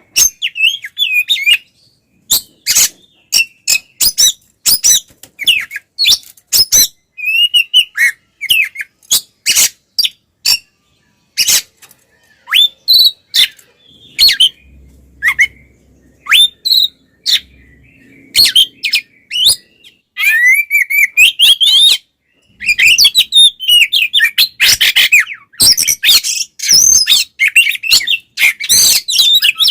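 Oriental magpie-robin (kacer) singing loudly in its fast, harsh fighting-style song: short sharp notes and whistled phrases come in bursts with brief pauses, then run almost without a break for the last third.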